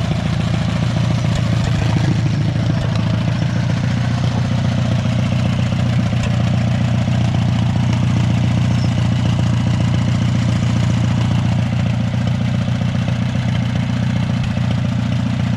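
Small Allis-Chalmers tractor's engine running steadily, just brought back to life after sitting derelict; it sounds good and even.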